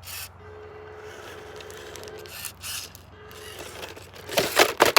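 A small 1/18-scale RC crawler's brushless motor whines faintly in short spurts. Loud scraping and clattering follow near the end, the truck's plastic body and tires scrabbling on dirt and rock.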